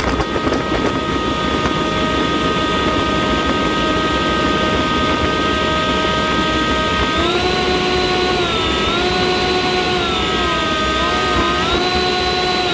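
Two leaf blowers running together: a steady, loud blowing rush with a whine over it. About seven seconds in the whine steps up in pitch and then dips and wavers a few times as the blowers' speed changes.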